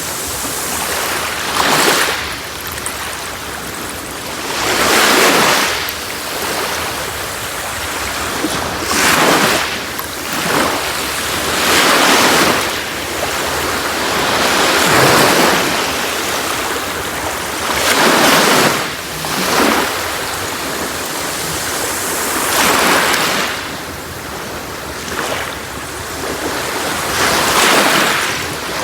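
Sea waves breaking on a beach, a surge of surf every two to three seconds over a steady wash of water.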